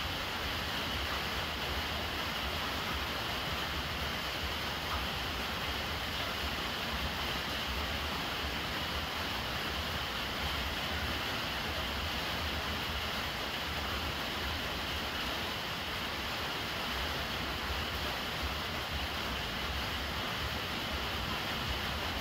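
Steady rain falling on the water surface of a full storage jar and its surroundings, with a thin stream running from a PVC downpipe into the jar.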